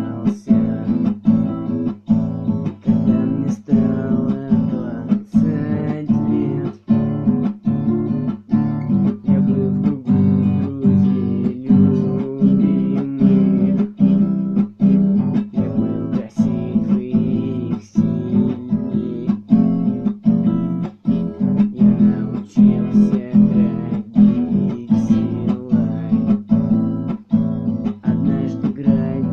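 Acoustic guitar strummed in a steady, even rhythm, playing chords.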